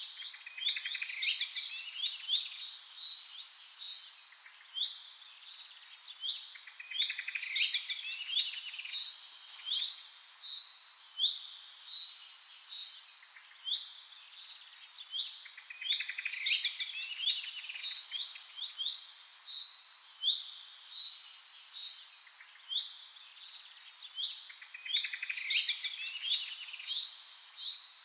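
Small songbirds chirping and singing in rapid, high-pitched trills and sweeping notes, in a pattern that repeats about every eight seconds.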